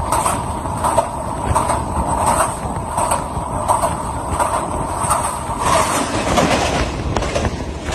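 Ravi Express passenger train passing at high speed over a bridge: a loud, steady rumble of carriages with the clickety-clack of wheels over rail joints, a clack a little more often than once a second.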